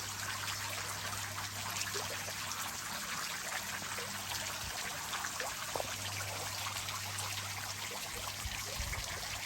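Small waterfall trickling and splashing into the water close by: a steady patter of many small drips and splashes.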